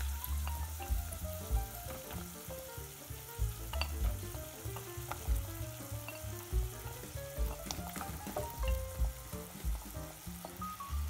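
Onions frying in oil sizzle in a steel pot as raw pumpkin cubes are tipped in from a plate with a spatula, with a few sharp clicks of cubes or spatula. Background music with a stepping melody plays over it.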